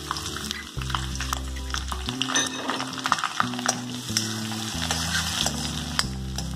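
Chopped onion frying in hot oil with mustard seeds and curry leaves in a steel kadhai, crackling and sizzling, with the scrape and clink of a steel spoon stirring it. Background music plays underneath.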